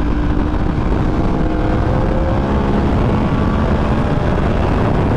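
A Yamaha R1 sport bike's crossplane inline-four, fitted with a Yoshimura exhaust, running at speed, heavy wind and road noise across the helmet-mounted microphone, its engine note climbing a little about halfway through.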